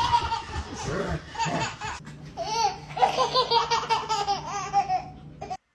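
A person laughing hard in a run of quick pulsed bursts, the sound cutting off suddenly near the end.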